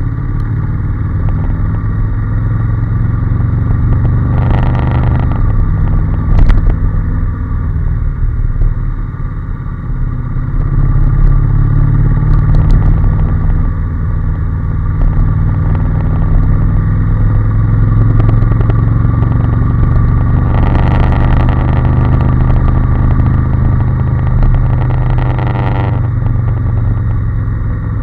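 Honda NC750S 745 cc parallel-twin engine running under way, its note dipping and then picking up again. Two stretches of added hiss come over it, a few seconds in and again near the end.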